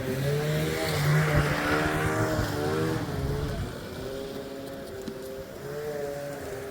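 Two-stroke carbureted snowmobile engine revving, louder and higher for the first few seconds, then dropping back to a lower, quieter run about halfway through.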